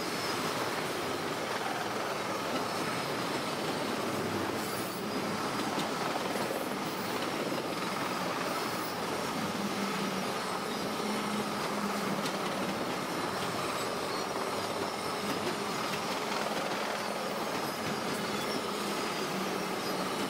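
Freight train of autorack cars rolling steadily past: the even noise of steel wheels running on the rails.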